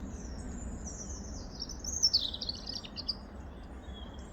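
Small songbirds singing, a quick high-pitched twittering phrase that grows louder and slides down in pitch about two seconds in, over a steady low rumble.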